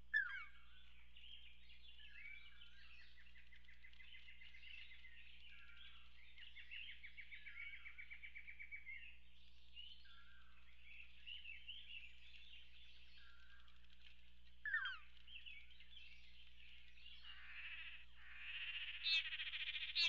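Several forest birds calling: rapid even trills, short sharp downward-slurred calls and scattered chirps, becoming denser and louder over the last few seconds.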